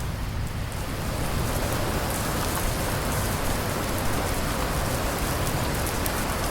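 Steady heavy rain falling on a surface, an even hiss with fine drop patter.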